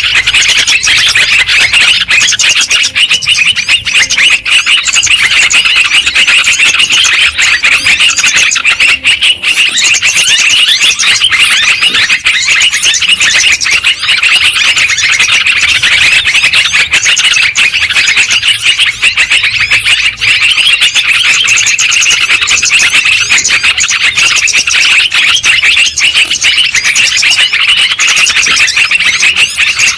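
Yellow-vented bulbuls (trucukan) chattering noisily together: many loud calls overlap without a break.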